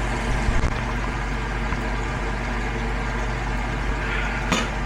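A steady low machine hum runs under the cooking, with a few short knocks about half a second in and a sharper knock near the end.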